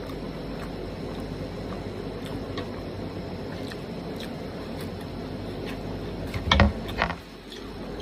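Eating sounds from chicken curry and rice: faint small clicks over a steady background hiss, with a couple of louder knocks about six and a half and seven seconds in.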